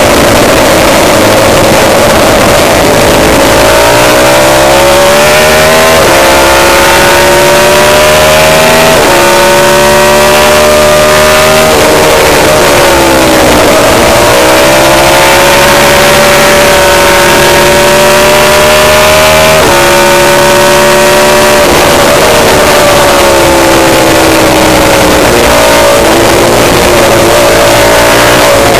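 Suzuki racing motorcycle engine at full throttle on a race track, loud throughout. The pitch climbs and drops sharply at each upshift, sinks as the bike slows for corners around the middle and again later, then climbs once more.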